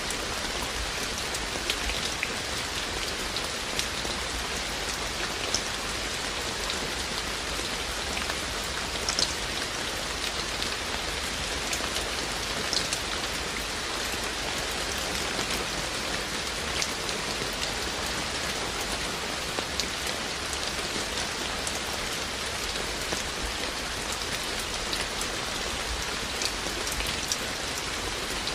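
Steady rain falling, with individual raindrops striking a nearby surface in sharp, irregular ticks.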